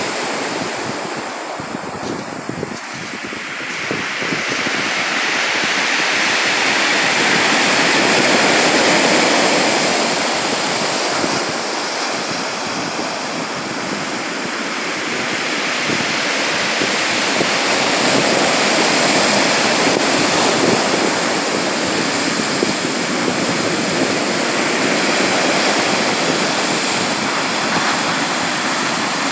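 Sea waves washing onto the shore in a continuous rushing surf, swelling and easing in slow surges every several seconds.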